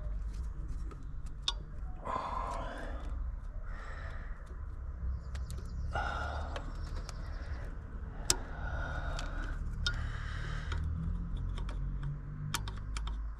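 Scattered light clicks and rattles of small hand tools and parts being handled while working on a car's fiddly trim clips, with short breathy noises now and then, over a low steady hum.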